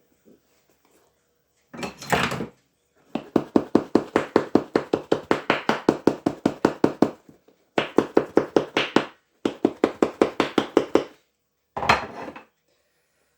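Shoe-repair sewing machine stitching in five bursts, the longest about four seconds, each a rapid, even clatter of about ten needle strokes a second, stopping and starting again.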